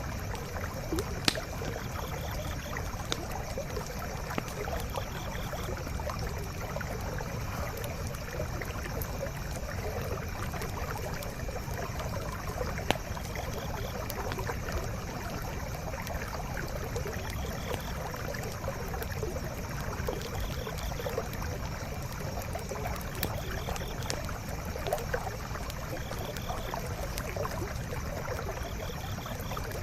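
Forest stream flowing steadily, with a wood campfire crackling over it in scattered sharp pops, the loudest about a second in and again about thirteen seconds in. A faint high chirp repeats every few seconds.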